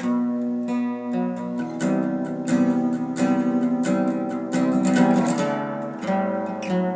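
Acoustic guitar strumming chords in an instrumental passage of a song, with firmer strokes in the middle.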